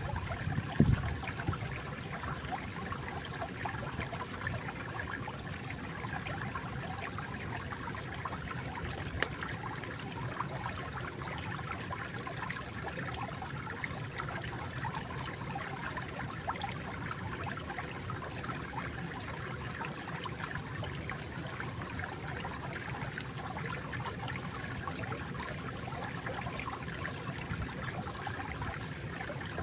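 Water flowing and trickling steadily, like a small stream, with a few louder splashes about a second in.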